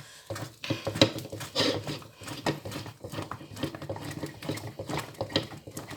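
Thick maize-meal porridge being stirred hard in a pot: a run of irregular knocks and slaps of the spoon against the stiff meal and the pot side.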